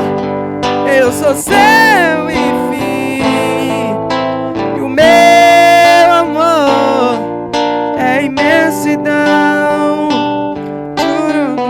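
Acoustic guitar strummed under a sung vocal line, with long held notes sung with vibrato.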